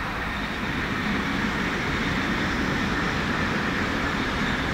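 Tokaido Shinkansen high-speed train approaching along the line. Its rushing wheel and air noise swells over the first second, then holds steady.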